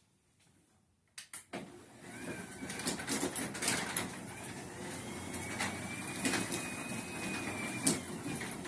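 Garage door opener starting about a second in and running steadily, its trolley re-engaged so that it drives the door along the track, with a faint whine that rises and falls in pitch and scattered clicks and rattles.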